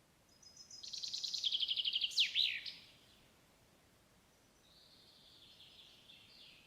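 A songbird sings one song about a second in: a rapid trill that ends in a quick flourish of falling notes. A second, fainter song follows near the end.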